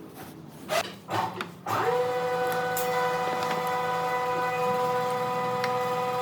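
A few light knocks of handling, then about two seconds in an electric power tool's motor switches on, spins up quickly and runs at a steady speed with an even whine.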